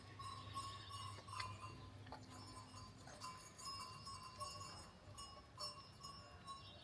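Faint, irregular clinking of small metal bells, with thin ringing tones that waver and recur throughout.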